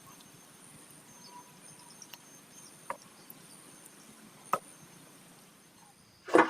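Wood being struck: a few light sharp knocks, then one loud heavy blow near the end, over a steady high-pitched insect chirring.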